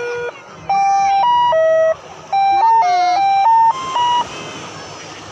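A simple electronic jingle melody of short held notes that step up and down in three quick phrases. It stops about four seconds in.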